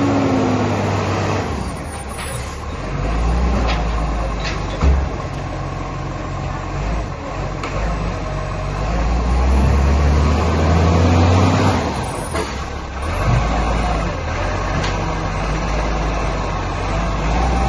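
Garbage truck's diesel engine running, revving up and easing off in turn, with a few sharp knocks.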